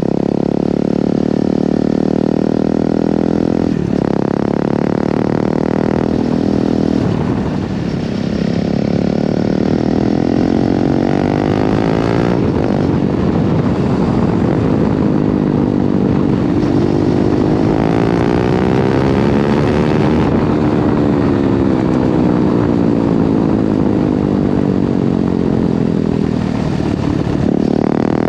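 KTM 390 Duke's single-cylinder engine and exhaust running while being ridden. The engine note rises and falls, with a few brief sharp drops in pitch in the first half like gear changes, then a slow swell and fall.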